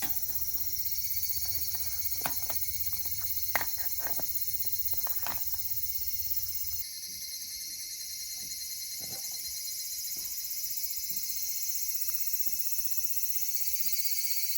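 A steady high-pitched chorus of summer insects, with scattered sharp clicks and crackles over the first half. About seven seconds in, the background changes abruptly and the low rumble drops away, while the insect sound carries on.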